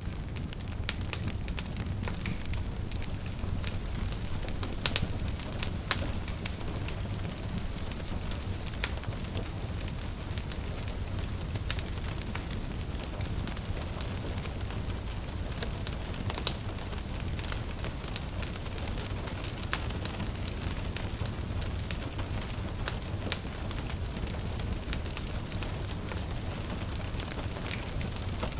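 Wood fire crackling, with frequent sharp pops over a steady low rumble, mixed with gentle rain.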